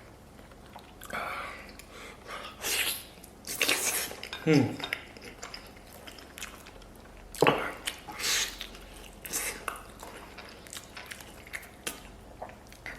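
Close-up eating of braised pig's trotter: a run of separate wet chewing, sucking and smacking sounds on soft, gelatinous skin and meat, with a short hummed vocal sound falling in pitch about four and a half seconds in.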